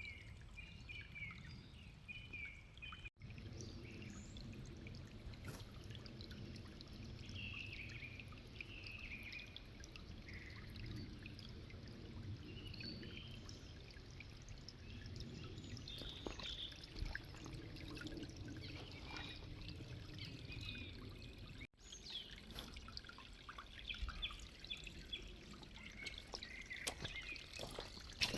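Spring water pouring and trickling steadily, with small birds chirping now and then. The sound cuts out for an instant twice.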